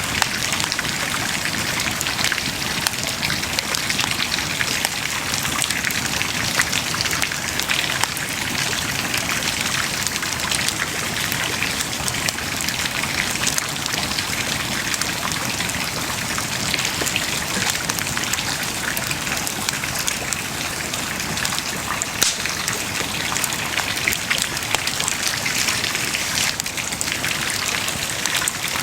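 Wood bonfire burning, a steady hiss full of dense fine crackling with a few sharper pops.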